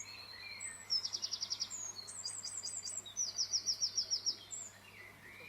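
Songbird singing: a rapid trill of short repeated notes, a run of quick down-slurred whistles, then another rapid trill, with softer bird chirps in the background.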